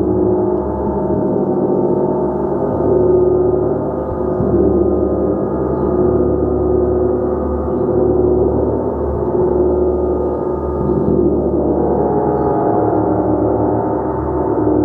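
A gong being played continuously, a dense sustained wash of many overlapping ringing tones. It swells and ebbs gently every second or two, with no single sharp strike standing out.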